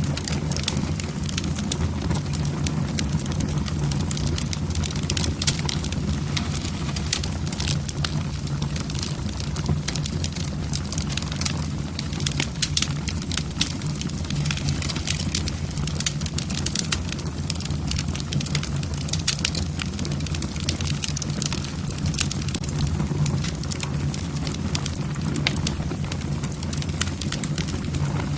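Wood fire in a fireplace burning steadily, logs crackling and popping over a low roar of the flames.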